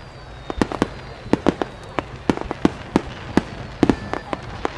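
Starmine fireworks barrage: aerial shells bursting in quick succession, sharp bangs about three a second at uneven spacing, each echoing briefly, with faint whistling between them.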